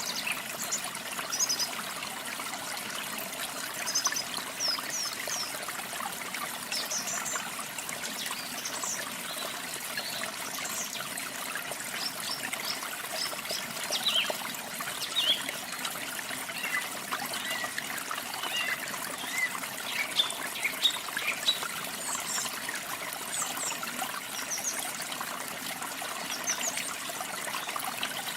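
Running water splashing and trickling steadily, with small birds chirping and singing short, quick high notes throughout.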